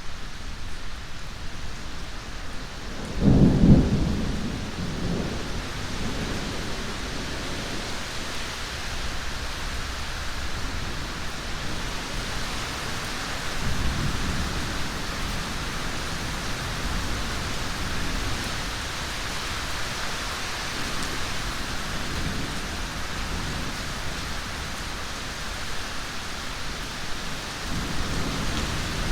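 Steady heavy rain with a loud clap of thunder about three seconds in, rolling on briefly, and fainter low rumbles of thunder later.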